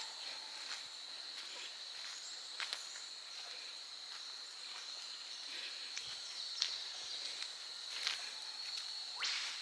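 Steady high-pitched drone of summer bush insects, with scattered footstep clicks on the trail. Near the end a single sharp, fast-rising whip-crack bird call cuts in, typical of an eastern whipbird.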